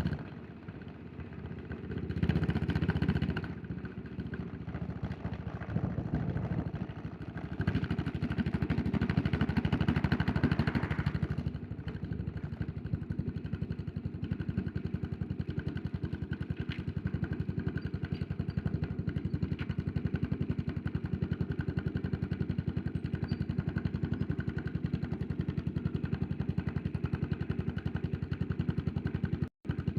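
Yamaha SR400's air-cooled single-cylinder four-stroke engine. It drops off sharply as the throttle closes at the start, swells briefly a couple of seconds in, then pulls harder for a few seconds. From about twelve seconds in it settles into a steady, even idle, and the sound cuts out for a moment near the end.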